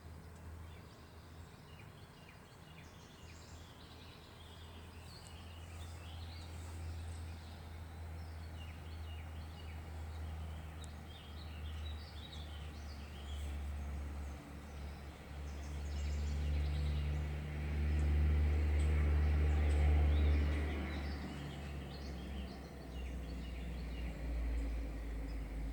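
Heavy truck engine rumbling low, growing louder to a peak past the middle as it comes by, then easing off a little. Birds chirp throughout.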